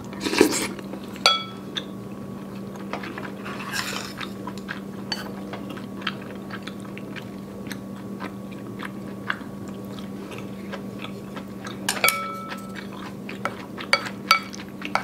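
Eating sounds of Korean rice cake soup and kimchi: chewing and biting, with chopsticks and a wooden spoon clicking and clinking against the bowl. Two clinks ring briefly, about a second in and again about twelve seconds in, over a steady low hum.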